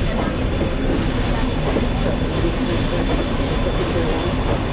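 Passenger train behind a 2-4-4-2 steam locomotive running along steadily, heard from an open observation car: a continuous, even rumble of wheels on rail.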